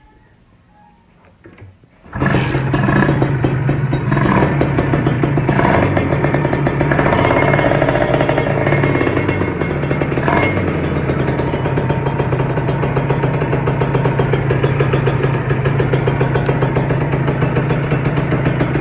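Kawasaki Ninja 150RR two-stroke single-cylinder motorcycle engine breathing through a GJR SP1 aftermarket exhaust. It comes in loud about two seconds in, is revved briefly a few times, then settles into a steady idle.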